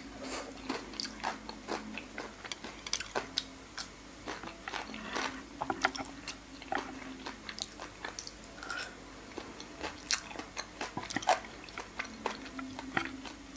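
Close-miked chewing of soy-marinated raw salmon and noodles: many short, irregular wet mouth clicks and smacks.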